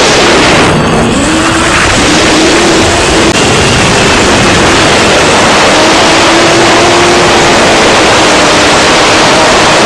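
6-inch FPV quadcopter's brushless motors and propellers in flight, picked up by the onboard camera's microphone: loud wind rush over a motor whine whose pitch drifts up and down with throttle. The rush briefly thins out about a second in.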